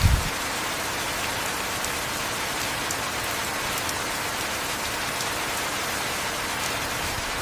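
Steady heavy rainfall, an even hiss with scattered faint drop ticks, and a brief low thud right at the start.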